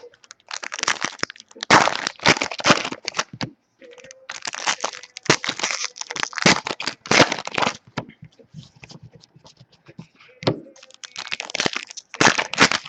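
Trading card pack wrappers being torn open and crumpled, crinkling in repeated bursts with short pauses between.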